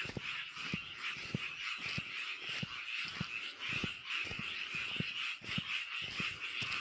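A chorus of frogs calling: a steady, dense, high-pitched chorus, with short deep croaks repeating about twice a second over it.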